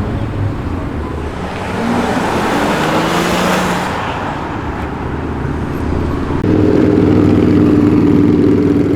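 Car engines as cars roll slowly past: one goes by with a swelling rush of engine and exhaust noise, then about six and a half seconds in a louder engine comes close and runs at a steady, even note.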